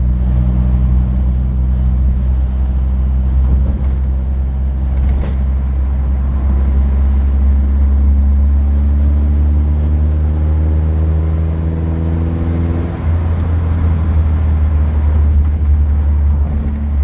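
Classic car's engine heard from inside the cabin, pulling with its pitch slowly rising for about thirteen seconds, then dropping at a gear change and running on steadily.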